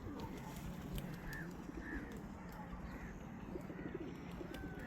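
Pigeons cooing, with short chirps from other birds repeating about every half second.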